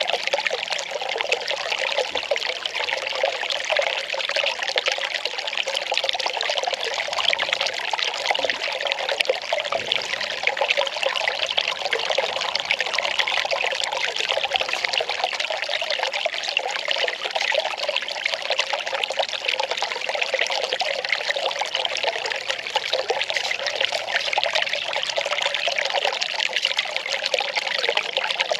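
Well water pouring and trickling steadily.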